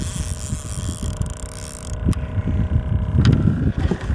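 Wind buffeting the microphone: an uneven low rumble of gusts, with a faint steady tone underneath.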